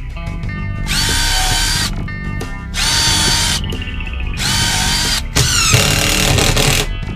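Power drill run in several short bursts, its motor spinning up to a steady pitch and winding down between them, with background music.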